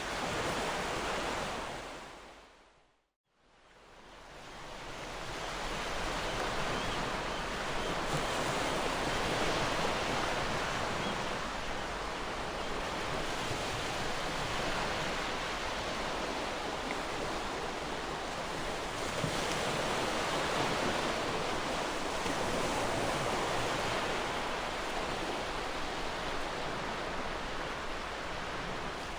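Gentle ocean waves washing onto a shore in a steady, slowly swelling hiss of surf. About three seconds in, the sound fades briefly to silence, then fades back up.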